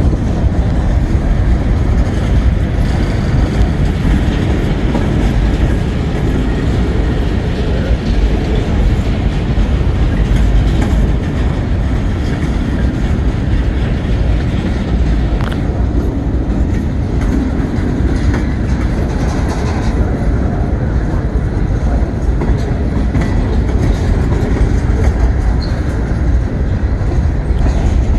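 A freight train's cars rolling past, with a steady, loud rumble and the clack of wheels over the rails.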